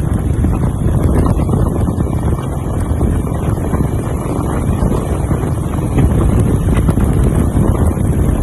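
BSA WM20 motorcycle's 500 cc single-cylinder side-valve engine running steadily, with wind buffeting the microphone.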